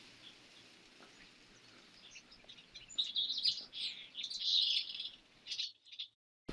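A small songbird chirping and twittering in a quick run of high notes, over a faint steady hush of breeze. The sound cuts off abruptly near the end.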